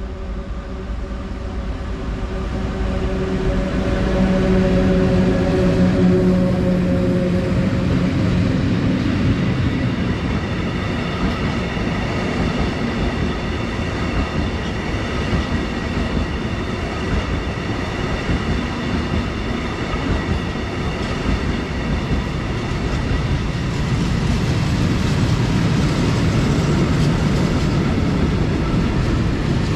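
A train passing close by. A low droning tone builds and peaks about six seconds in, then fades, giving way to steady rolling noise with thin high whining tones. The noise grows louder again near the end.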